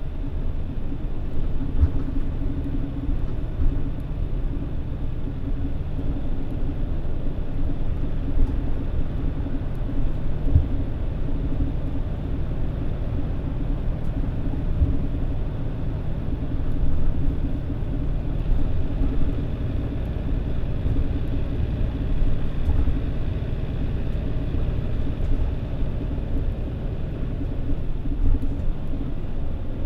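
Mitsubishi Fuso Aero Star (PJ-MP35JM) city bus's diesel engine running at idle while the bus waits at a stop, heard inside the cabin as a steady low rumble with a few low thumps.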